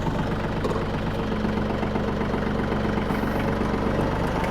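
Bad Boy 4025H compact tractor's engine running steadily, with a steady hum held until about four seconds in, as the tractor works at pulling up a buried car.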